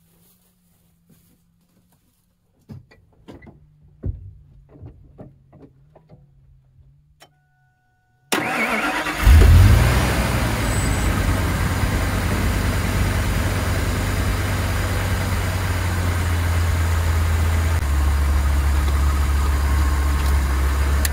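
1999 one-ton truck engine cranked and started: it catches within about a second of cranking with a brief loud flare, then settles into a steady idle, the idle note dropping a little near the end. Before the start there are a few light clicks and knocks and a short two-tone beep.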